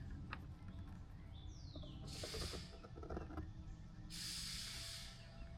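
A blade scraping excess super glue off a plastic tail light lens: two short hissing strokes, the second longer, about a second.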